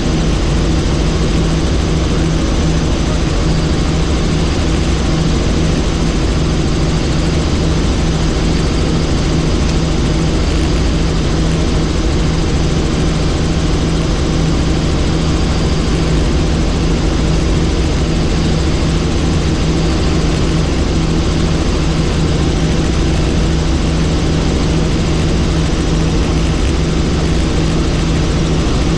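Helicopter in flight: the rotor and engine drone steadily with an unchanging low hum throughout.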